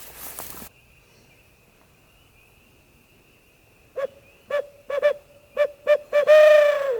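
Barred owl hoot blown on an owl hooter locator call: about seven short hoots in an uneven rhythm, then a loud long hoot that falls in pitch at the end. It is made to startle roosted turkeys into gobbling.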